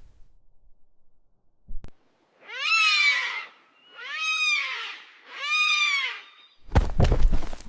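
An animal crying three times, each cry drawn out for about a second and rising then falling in pitch. A loud burst of noise follows near the end.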